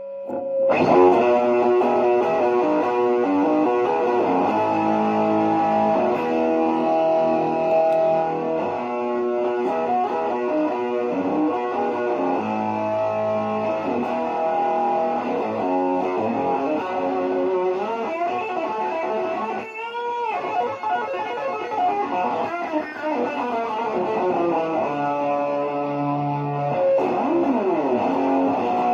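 Electric guitar played through a multi-effects pedal's rock amp channel with the gain cranked up, sustained distorted notes and chords. About two-thirds of the way in there is a brief scraping noise.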